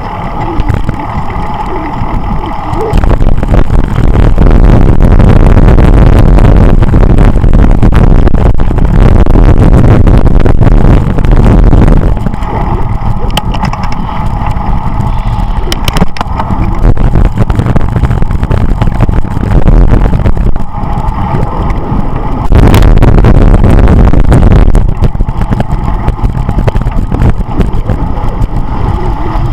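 Wind rumbling and buffeting on the microphone of a camera riding along on a moving bicycle. It gusts harder in two long stretches, near the start and past the middle, where it overloads the recording.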